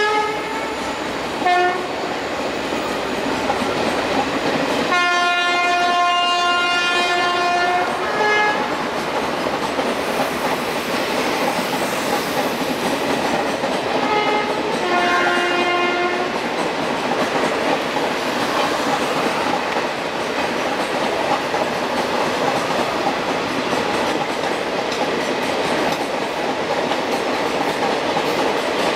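Indian Railways passenger trains rolling past, their wheels clattering steadily over the rail joints. A locomotive horn sounds several times: a brief blast about a second and a half in, a long blast of about three seconds starting about five seconds in, a short one just after it, and a couple more short blasts around the middle.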